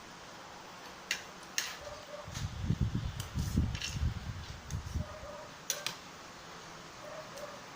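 Close-up eating sounds: sharp wet mouth clicks and smacks, with a couple of seconds of low, uneven chewing noise in the middle.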